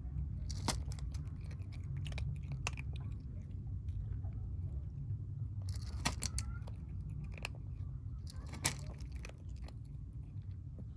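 Kittens eating, crunching and chewing their food, with sharp crunches standing out about a second in, around six seconds and near nine seconds over a steady low rumble.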